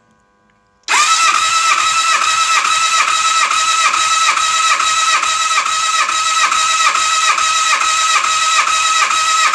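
Suzuki GSX-R750 inline-four engine being cranked over on its electric starter with the spark plugs out, during a compression test on the first cylinder: a steady starter whine with an even beat of about two to three pulses a second. It starts about a second in, and the engine does not fire.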